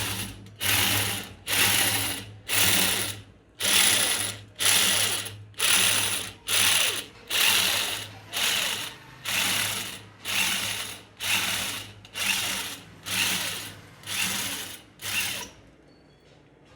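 Drill bit boring out the stripped spark plug hole in a Honda CD 70 cylinder head, so a threaded bush can be fitted. The cutting comes as a steady rhythm of harsh, ratchety scraping strokes, about one and a half a second over a low hum, and stops near the end.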